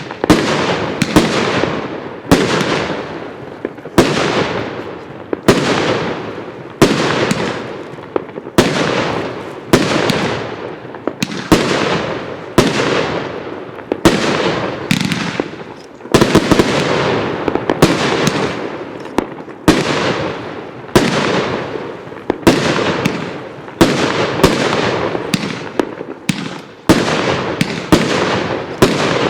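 Consumer firework cake 'The Sun and Planets' firing shot after shot, about one sharp report a second, each dying away over roughly a second before the next.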